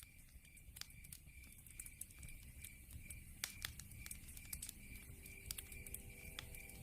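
Wood fire burning in a fireplace, crackling with scattered sharp pops over a low rumble of the flames. An evenly pulsed high chirp repeats about three times a second behind it, typical of crickets at night.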